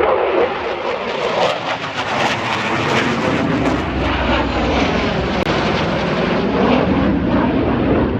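Aircraft flying past overhead, a loud continuous rush of engine noise that holds steady throughout.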